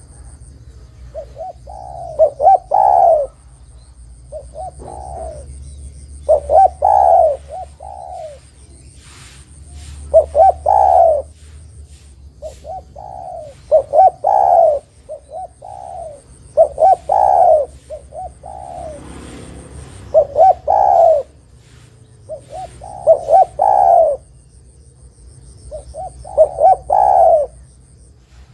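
Spotted dove (derkuku) cooing its repeated call: a short phrase of a few coos, the last one loudest and longest, coming again every three to four seconds. A faint steady high whine runs underneath.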